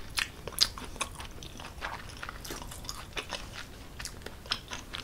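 Close-miked chewing of a mouthful of creamy, cheese-stuffed tortellini pasta with bacon and vegetables: irregular wet clicks and smacks, one sharper click a little over half a second in.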